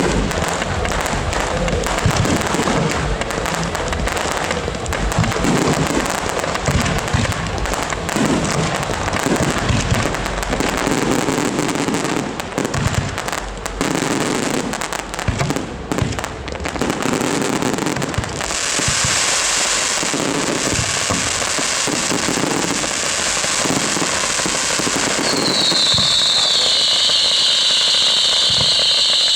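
Fireworks display: rapid bangs, booms and cracks follow one another without a break. About two-thirds of the way through, the separate bangs give way to a steady hiss, and near the end a loud, high, steady shriek rises above it.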